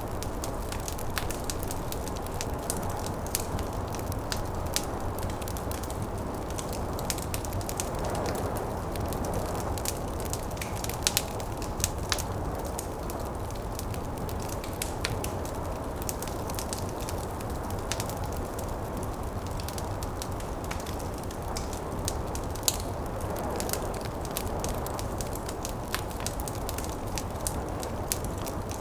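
Wood fire crackling with irregular sharp snaps and a few louder pops, over a steady low rush of snowstorm wind.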